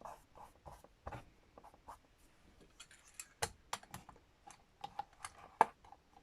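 Irregular sharp taps and clicks of a nearly empty craft glue bottle being tapped and handled to coax the last bit out, the loudest knocks about three and a half and five and a half seconds in.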